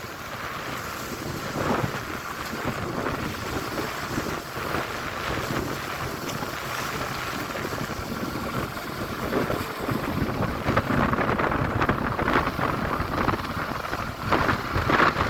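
Strong wind gusting and buffeting the microphone at the start of a storm, a continuous rumbling rush that swells louder near the end.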